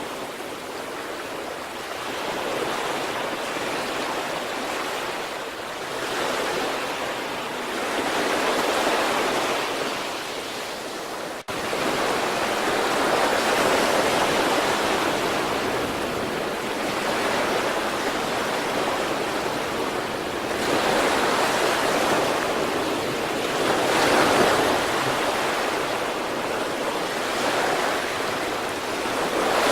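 Sea waves breaking and washing up on the shore, a continuous rushing that swells and ebbs every few seconds as each wave comes in. A momentary break in the sound about eleven seconds in.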